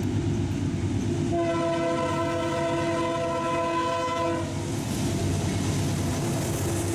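Train locomotive's air horn sounding one long multi-tone blast, starting about a second in and stopping about four and a half seconds in, over the steady rumble of the train. The horn begins again just at the end.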